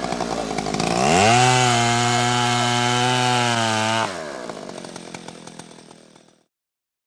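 Motorbike engine sound revving up about a second in, holding a steady pitch, then cutting off at about four seconds and fading away.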